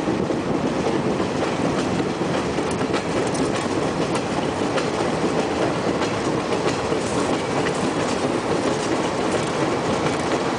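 Train running along the track, heard from an open carriage window: a steady rumble with the clickety-clack of wheels over the rail joints.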